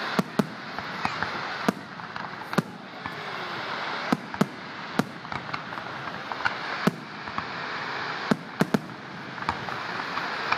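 Fireworks display: a steady crackling haze with a dozen or so sharp bangs at irregular intervals, some in quick pairs.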